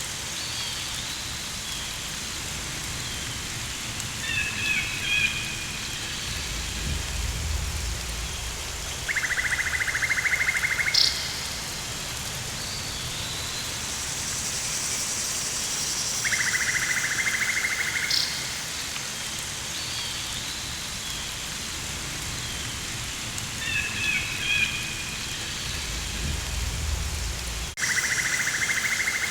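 Rainforest ambience: a steady rain-like hiss, with a pulsing buzzing call that comes three times for about two seconds each. Clusters of short chirping calls come twice, and a low rumble twice.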